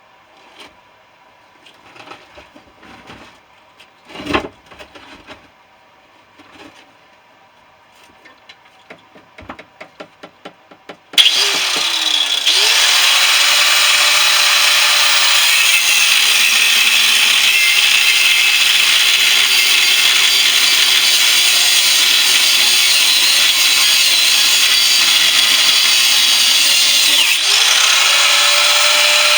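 Scattered clanks and knocks of metal parts being handled, with one louder knock about four seconds in. Then an electric power tool starts suddenly, spins up to speed and runs steadily as it cuts into the compressor's shell, slowing briefly and spinning up again near the end.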